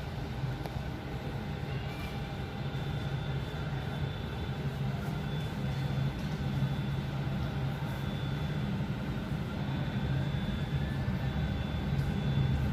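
Steady low mechanical hum, growing a little louder near the end, with a faint high whine that comes and goes.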